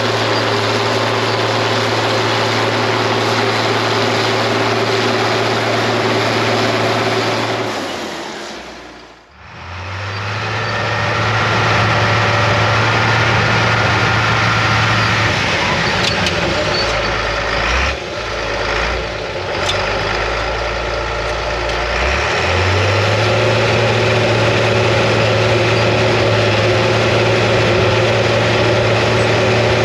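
International TD15C crawler dozer's DT466 diesel engine running steadily while pushing. The sound fades out and back in about nine seconds in. Around the middle, the engine note drops lower for about four seconds.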